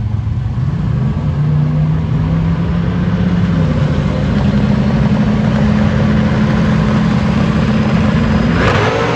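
A race car's engine running loud and steady, stepping up in pitch twice, with a sharper rise in revs near the end.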